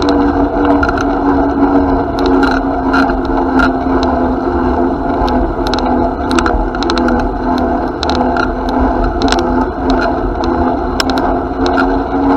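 Riding noise from a moving bicycle: a steady rush with a constant hum and frequent small clicks and rattles.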